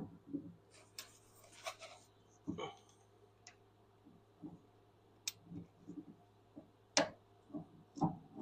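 Scattered clicks, light knocks and a brief scrape of metal parts and tools being handled, with the loudest knocks at the very start and about seven seconds in.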